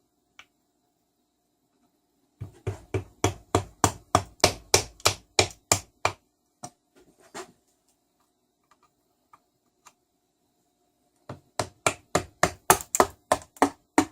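Rapid hammer strikes, about five a second, on a Tecumseh small engine's side cover to break it loose from the crankcase. Two runs of blows, the first about two seconds in and the second near the end, with a few single knocks between them.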